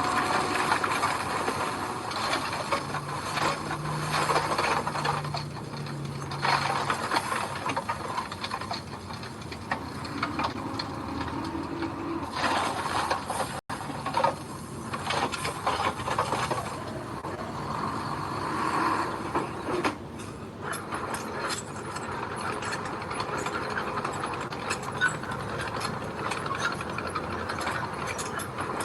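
Diesel construction machinery working gravel: an engine running under a steady clatter and rattle of metal and stones, with a short break about halfway through.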